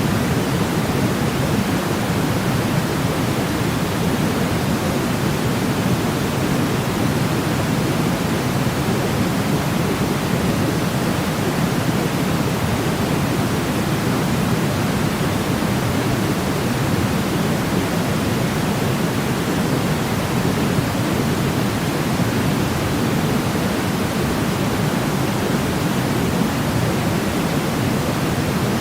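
Steady white noise for baby sleep: an even rushing hiss, heavier in the low range, with no change in level.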